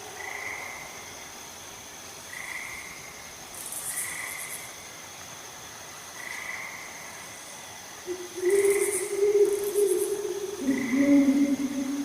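Night ambience of crickets and frogs: a steady insect trill, short high chirps, and a short call repeating about every two seconds. About two-thirds in, two long low hooting calls come in, the second lower than the first.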